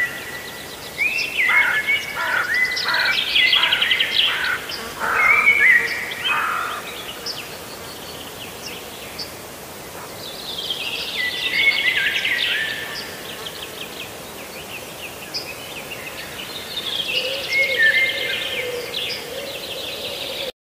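Songbirds singing in bouts of chirps and trills, with quieter gaps between bouts; the sound cuts off abruptly near the end.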